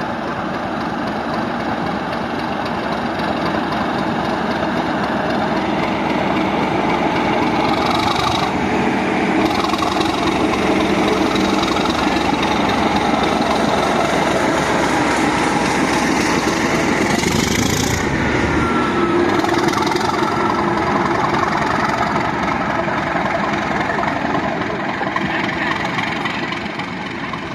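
Class 37 diesel locomotive's English Electric V12 engine running, growing louder over the first several seconds and easing off near the end, with a few short high hisses in the middle.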